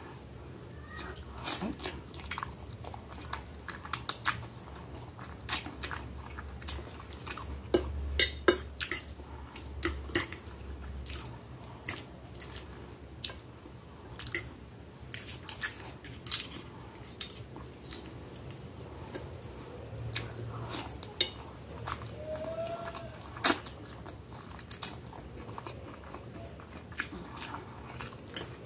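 Close-up chewing of spaghetti in tomato sauce: wet mouth clicks and smacks coming at an irregular pace.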